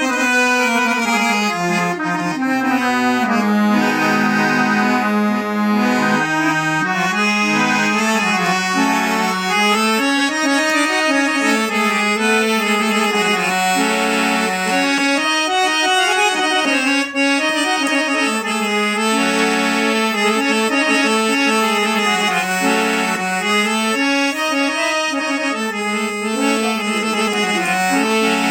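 Harmonium with a Casio keyboard fitted in it for an organ-like sound, the two sounding together. It plays a stepping melody over held chords without a break.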